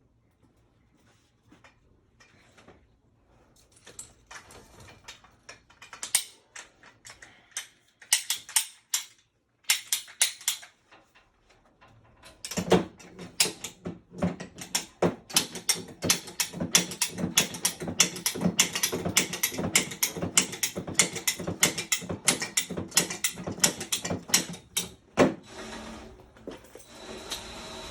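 Ratchet-like mechanical clicking from hand tools working on metal. Scattered clicks at first, then from about halfway a quick, fairly even run of clicks, two or three a second, over a steady low hum, with a loud knock near the end.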